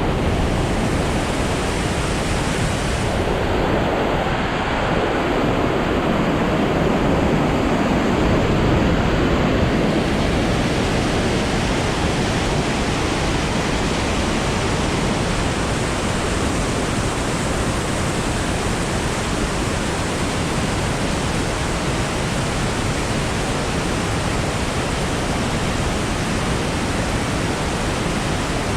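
A tall waterfall in heavy flow, heard close from its base: a loud, steady rush of falling and crashing water.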